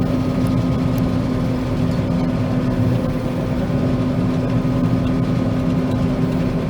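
John Deere 9500 combine running steadily while cutting soybeans: an even engine and machine drone with a constant low hum.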